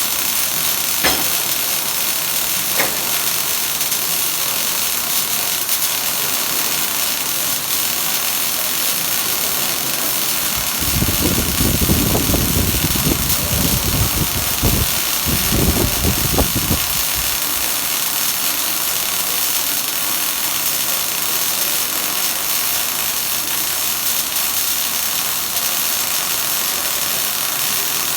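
Steady hissing noise of arc welding in progress. A louder low rumble joins in from about 11 to 17 seconds.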